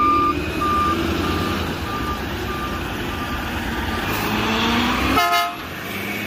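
Rear-loader garbage truck's reversing alarm beeping at a steady high pitch about every two-thirds of a second over the running engine. The beeps fade out about four seconds in as the engine note rises.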